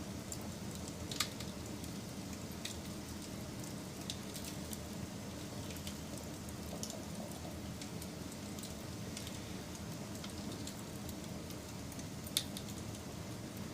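Wood fire burning with a steady low rumble and scattered crackles, and two sharper pops, one about a second in and one near the end.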